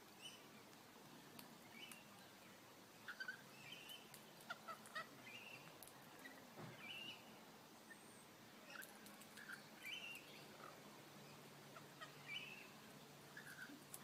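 Faint, short bird chirps scattered through, roughly one a second, with a few small ticks among them.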